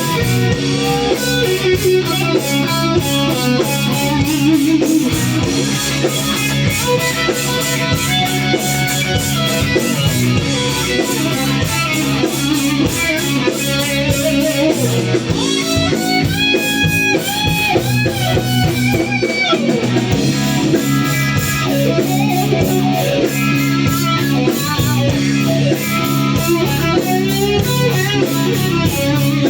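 Live rock band playing: electric guitar over bass guitar and drums, with a steady beat.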